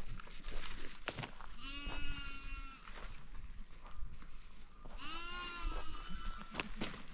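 Two long bleats from sheep or goats in a flock, one about one and a half seconds in and another about five seconds in, with scattered clicks and knocks around them.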